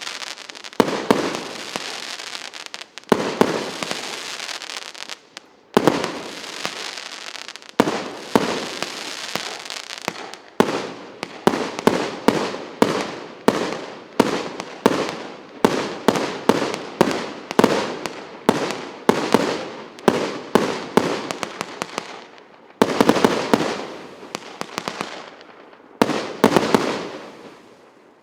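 Firework cake (Russian Pyrotechnics PC 8700 battery) firing. Sharp bangs, each trailed by a rush of noise, come about every two seconds at first, then about two a second from around ten seconds in. Two dense volleys near the end die away as the battery finishes.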